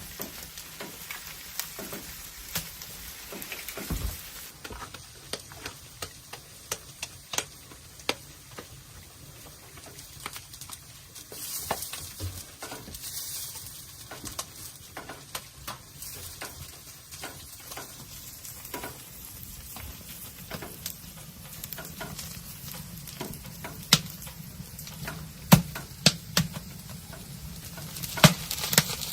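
Food frying in a pan, with a steady sizzle. A utensil clicks and scrapes against the pan throughout while the food is stirred and turned, with a few louder knocks near the end.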